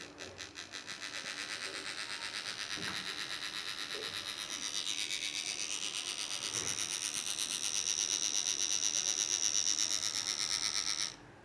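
Micromax mobile phone's speaker giving out a rapidly pulsing, buzzy electronic noise that grows louder and then cuts off suddenly near the end.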